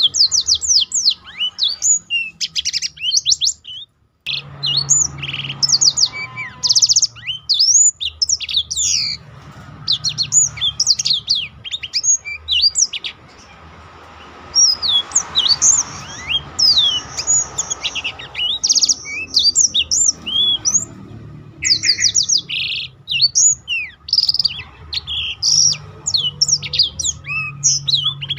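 Black-throated canary (blackthroat) song: a long run of rapid, varied high chirps, sweeping notes and trills, breaking off briefly about four seconds in. A faint low hum sits underneath.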